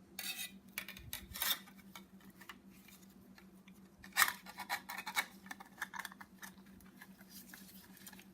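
Light metal clicks and scrapes from a piston being handled and fitted into a band-type ring compressor, with one sharper click about four seconds in.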